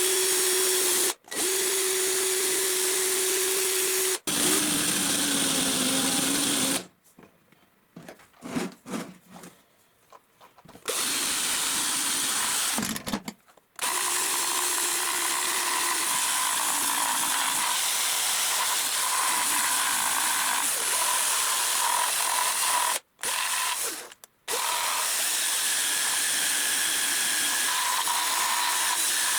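Power tool running steadily, with its hum changing pitch between takes. It is heard in several clips joined by abrupt cuts, with a short, mostly quiet break about a third of the way in.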